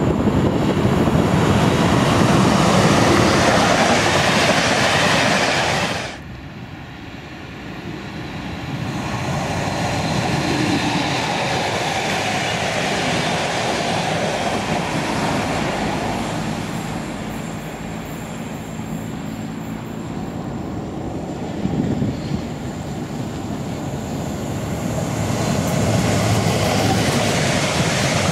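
Passenger trains passing close by on electrified track: a locomotive-hauled train of green coaches rolls past with a steady rush of wheel and rail noise. Near the end a red-and-white electric multiple unit passes. The noise drops off sharply about six seconds in, then builds again.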